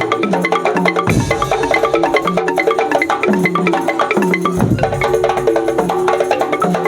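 Percussion ensemble music: fast, even clicking of wooden percussion over repeated pitched mallet notes, with a deep drum stroke about a second in and again past four seconds.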